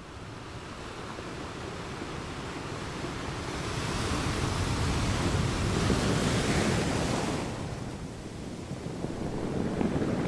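Ocean waves on a sandy beach: a wave builds over the first few seconds, breaks and washes in with a hiss about four to seven seconds in, then draws back, and the next wave starts rising near the end.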